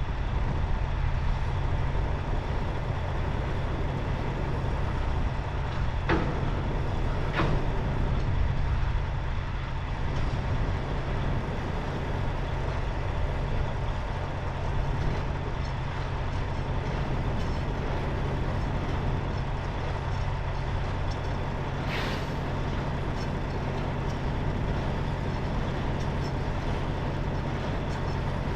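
Semi truck's diesel engine running steadily, with a few sharp clicks along the way.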